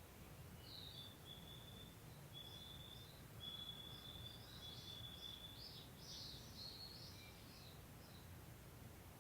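A songbird singing faintly: a run of long, level whistled notes with quick higher flourishes that grow busier toward the middle, over a steady low rumble.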